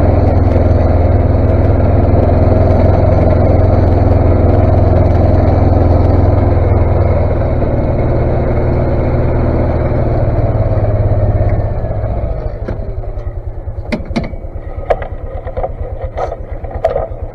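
Engine of a snowplow vehicle running steadily under load while plowing, then easing back to an even idle about twelve seconds in. A few sharp clicks and knocks come near the end.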